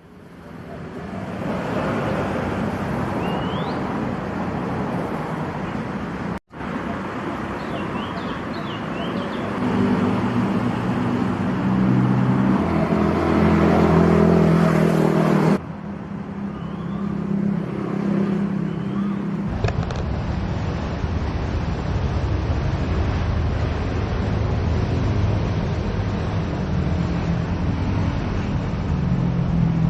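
Road traffic: vehicle engines running and passing, in several clips cut together. A few short high chirps are heard above the traffic.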